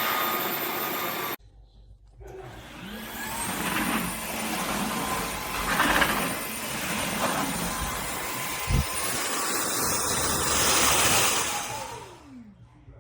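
A Dreame H12 Pro cordless wet-dry vacuum mop runs with a steady high whine, cleaning a soiled carpet. It cuts off abruptly early on, starts up again and runs, with one low knock partway through. Near the end it winds down, its pitch falling.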